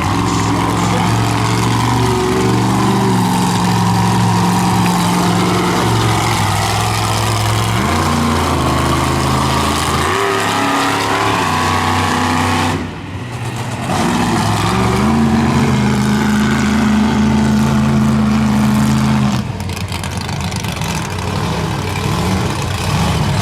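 Monster truck's supercharged V8 engine running hard in an arena, its pitch stepping up and down as the throttle is worked, with rising revs around 8 and 14 seconds in. It cuts off sharply for about a second near the middle, then comes back up and holds a steady high note until it eases off about two-thirds of the way through.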